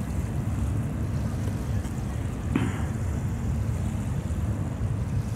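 Steady low rumble of distant BNSF diesel freight locomotives heard across the river, mixed with wind on the microphone. A brief click about halfway through.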